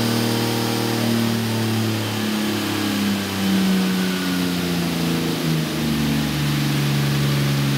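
Turbocharged Toyota 2JZ straight-six with a Greddy TD06 turbo running on its first start-up. Its idle wanders, with a brief rise in revs about three and a half seconds in, then settles to a steady idle near the end.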